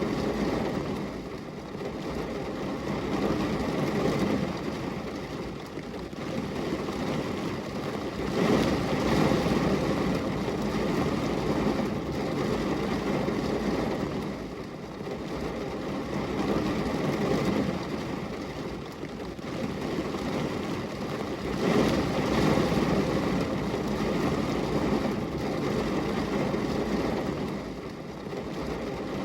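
Steady rain on window glass: a dense rushing hiss that swells and eases every few seconds.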